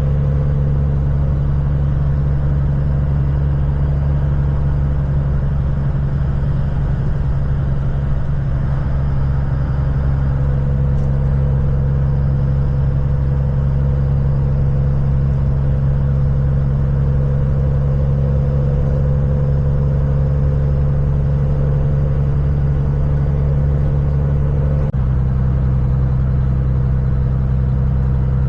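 Kenworth semi truck's diesel engine running steadily while driving, a deep drone; the engine note shifts about 25 seconds in.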